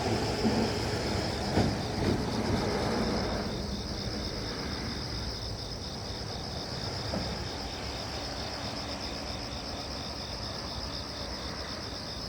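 Insects chirping in a steady, fast-pulsing high trill. A louder rush of noise with a few soft knocks sits under it in the first three seconds, then fades.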